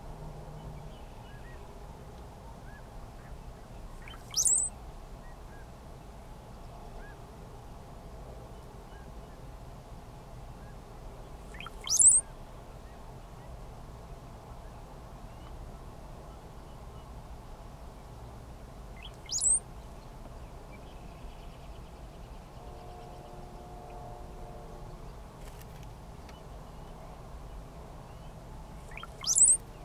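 Male brown-headed cowbirds singing, four short songs several seconds apart, each rising quickly to a high, thin whistle.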